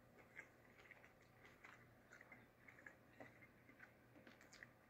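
A person chewing a bite of smoked sausage with barbecue sauce, heard only as faint, scattered soft mouth clicks over near silence.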